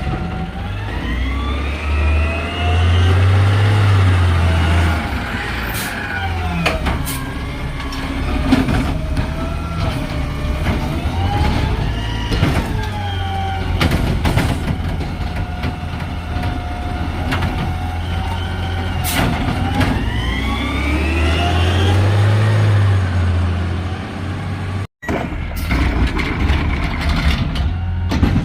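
Garbage truck's diesel engine revving up and easing back down twice, with scattered clicks and knocks in between.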